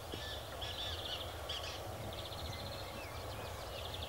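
Birds chirping and trilling, with short slurred notes and a quick trill about two seconds in, over a steady low background rumble.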